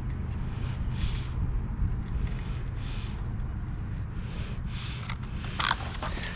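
Greasy grime being scrubbed off a motorcycle chain: soft scraping strokes about every second and a half over a steady low hum, with a few sharp clicks near the end.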